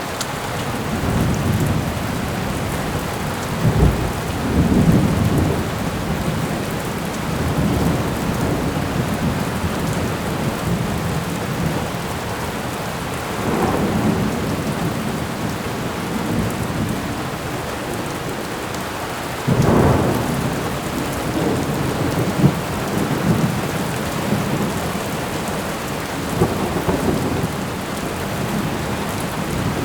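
Thunderstorm: steady rain with rolls of thunder rumbling through it, the loudest clap breaking in suddenly about two-thirds of the way through.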